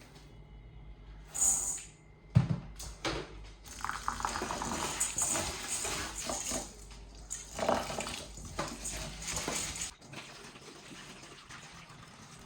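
Water running from a kitchen tap into a sink for several seconds, stopping abruptly near the end. A sharp knock comes shortly before it.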